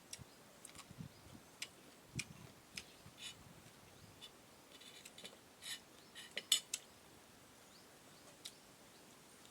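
Utensils and dishes clinking during a meal: a scatter of light, sharp clicks and taps, with a louder clatter about six and a half seconds in.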